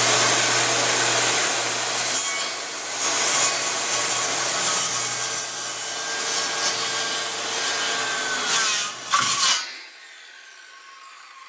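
Electric power saw cutting pressure-treated 2x6 lumber: a loud, steady sawing noise over the motor's hum. Near the end the saw comes out of the cut and the motor winds down and stops.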